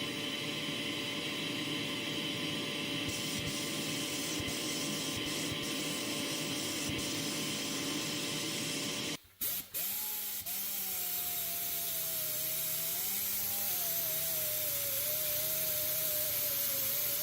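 A power tool running steadily with a constant whine. It cuts out briefly about nine seconds in, then starts again with a pitch that wavers slowly up and down.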